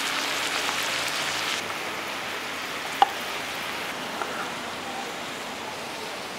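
Lamb meat, heart, onions and potatoes sizzling as they fry in hot rendered fat-tail fat in a wide pan: a steady hiss that eases a little after the first second and a half. One sharp click about three seconds in.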